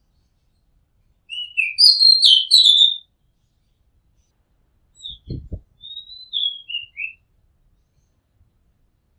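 Oriental magpie-robin singing: two phrases of varied, sweet whistled notes, the first about a second in and the second about five seconds in, with a pause between them.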